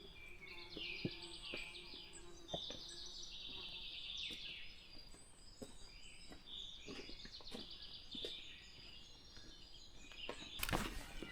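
Small songbirds singing in short, repeated chirping and trilling phrases, with a few faint clicks. Near the end, louder footsteps start up close.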